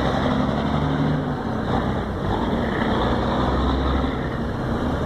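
Kenworth W900L semi truck's diesel engine running loud through straight pipes, its note shifting a little about a second and a half in and again near four seconds.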